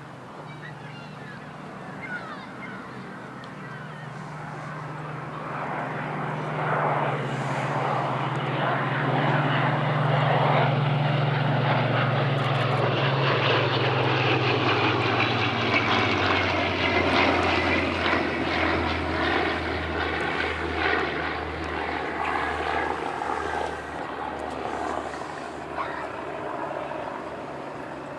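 Piston-engined Second World War fighter flying past: the propeller engine's drone builds up, peaks, and drops in pitch as it passes a little over halfway through, then fades away.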